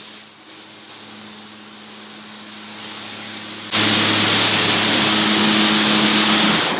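A low steady hum, then about four seconds in a loud, steady rushing machine noise with a hum beneath it switches on abruptly, running for about three seconds before cutting off near the end.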